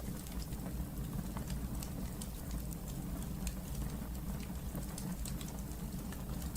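Wood fire burning in a fireplace: a steady low rumble of flame with many small, irregular high crackles and pops from the burning logs.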